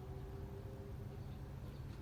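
Outdoor background: a steady low rumble with a faint hum, and a few faint high chirps.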